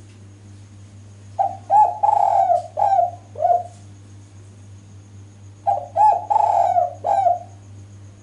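Spotted dove cooing: two phrases of about five coo notes each, about four seconds apart. The call is offered as a female's, used to lure males into answering. A steady low hum runs underneath.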